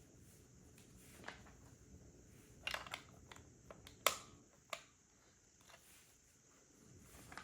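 Plastic LEGO pieces clicking and tapping as they are handled and pressed together: scattered sharp clicks, a small cluster near three seconds and the loudest about four seconds in.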